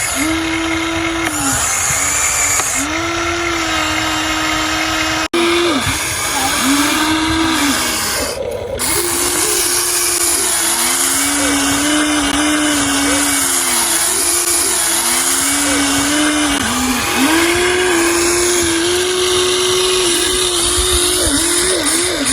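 Huina RC excavator's small electric motors whining, the pitch rising and falling over and over as the excavator is worked. The sound cuts out for an instant about five seconds in.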